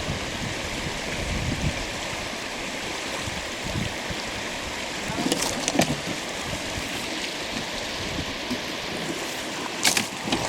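River water rushing steadily, with a few sharp knocks about halfway through and again near the end.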